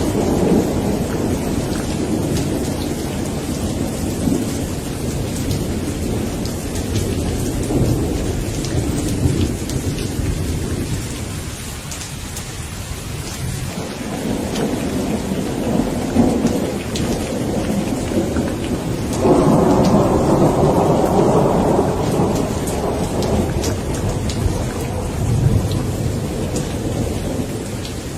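Steady rain falling with thunder rumbling beneath it in long rolling waves, fading briefly about twelve seconds in and swelling into a louder roll about two-thirds of the way through.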